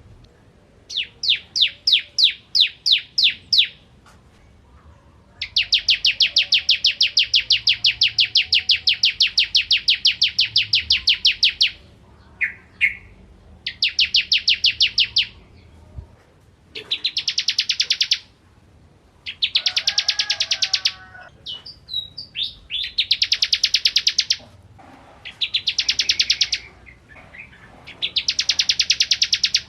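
Bar-winged prinia (ciblek) singing: runs of fast, evenly repeated high chips, about eight to ten a second. The runs last from under a second to about six seconds, with short pauses between them.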